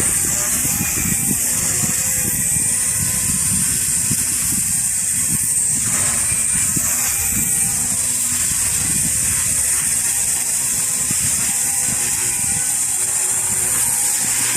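Strong wind buffeting the microphone: a steady rushing hiss with irregular gusty low rumbling, and a faint steady tone underneath.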